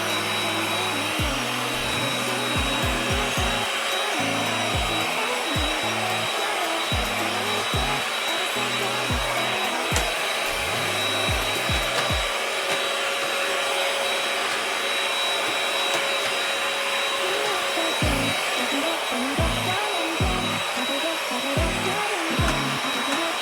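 A household electric appliance motor running steadily: an even rushing of air with a high, steady whine, over background music with a bass beat.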